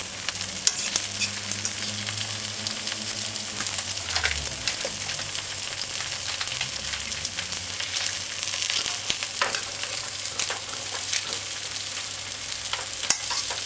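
Diced tomato, sweet pepper, onion and sardine frying in hot oil in a pot, a steady sizzle with many small crackles and pops throughout.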